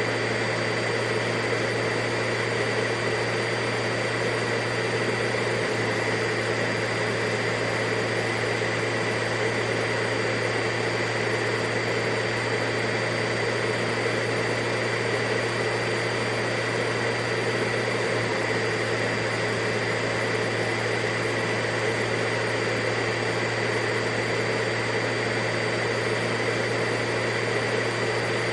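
Vacuum cleaner running steadily: a constant motor hum with a high whine over a rushing-air noise, unchanging throughout.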